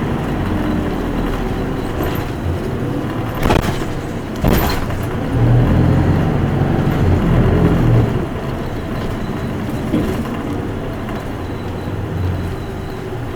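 Running sound inside an Isuzu Erga Mio city bus: the diesel engine and road rumble as the bus drives. There are two short, sharp noises about three and a half and four and a half seconds in, and the engine note is louder from about five and a half to eight seconds in.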